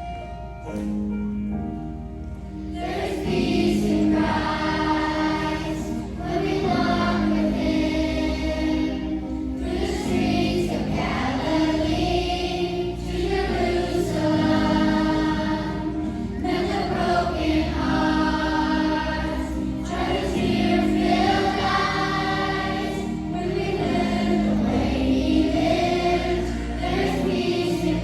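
A choir singing a Christian song with instrumental accompaniment, the voices coming in about three seconds in after a short instrumental introduction.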